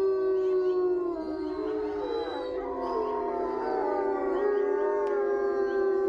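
Several wolves howling together in chorus: long, overlapping howls at different pitches that slide up and down.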